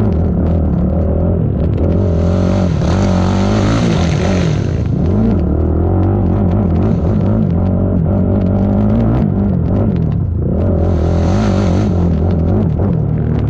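ATV engine racing over rough ground, its pitch rising and falling as the throttle is worked. Twice, about two seconds in and again near the end, a rushing hiss swells over it.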